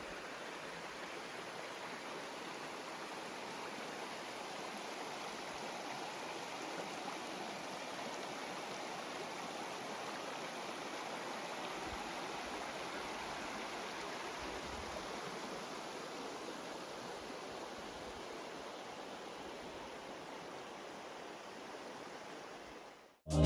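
Water of a stream rushing steadily, an even flowing noise with no distinct splashes.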